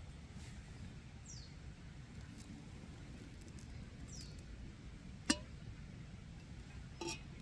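A wild bird gives short high calls that drop in pitch, twice, over a low steady outdoor rumble. A sharp click about five seconds in, and a brief clatter near the end.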